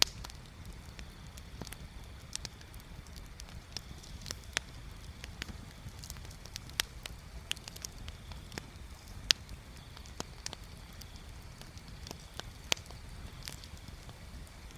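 Wood bonfire crackling, with irregular sharp pops and snaps, the loudest about nine seconds in and near the end, over a steady low rumble.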